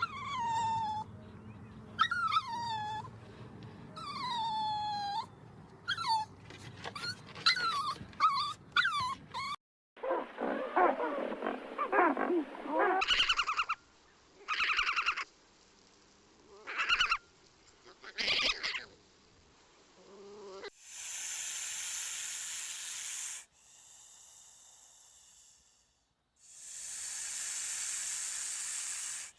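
A run of different animal calls: first a string of high, downward-falling whining cries, then shorter pitched calls, then two long hisses near the end.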